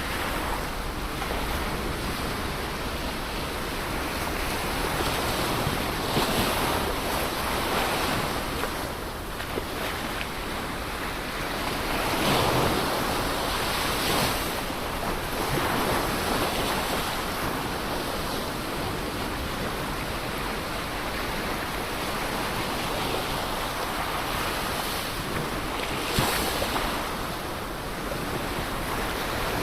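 Ocean waves breaking and washing on the shore in a continuous rush that swells and ebbs every few seconds, with wind on the microphone.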